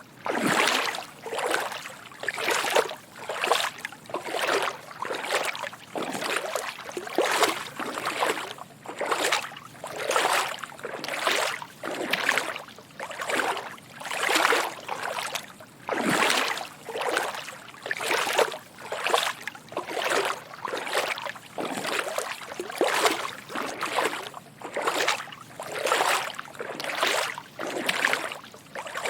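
Footsteps wading through shallow water: a steady walking rhythm of soft sloshing splashes, about three every two seconds.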